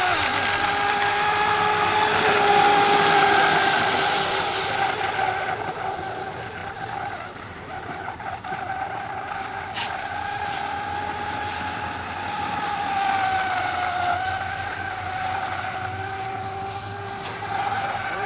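Electric radio-control racing boat running on the water: a steady high motor whine that bends in pitch as the boat turns, loudest in the first few seconds, fading in the middle and coming back after about thirteen seconds.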